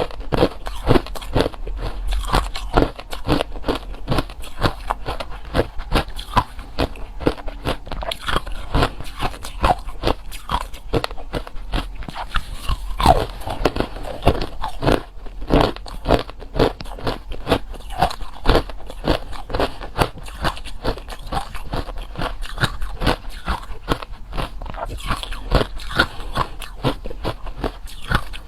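Close-miked chewing of hard and crushed ice: dense, irregular loud crunches, several a second, all the way through.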